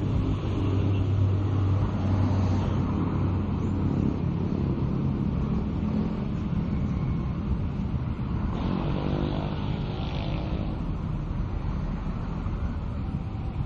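Heavy engine running with a steady low drone. About eight seconds in, a higher tone rises for a couple of seconds with a hiss over it.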